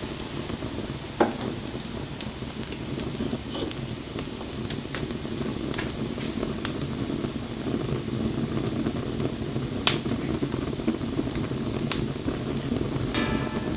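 Wood fire burning with a steady low rush and scattered sharp crackles and pops, the loudest pop about ten seconds in.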